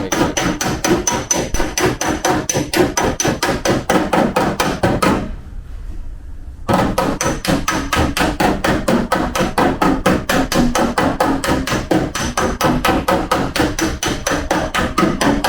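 Fast, even hammer blows on a car's hard sheet-steel body panel during collision repair, about eight strikes a second with a thin metallic ring, described as a hard 'kon-kon-kon' steel sound. The hammering stops for about a second and a half about five seconds in, then starts again.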